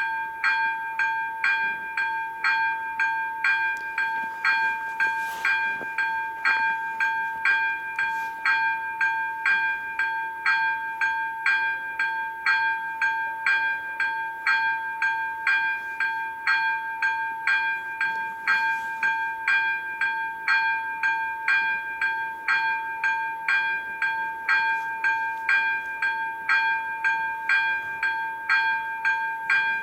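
Electronic warning bell of a Czech level crossing ringing steadily at about two strokes a second, each stroke a bright, bell-like ring: the crossing is active and a train is approaching or passing.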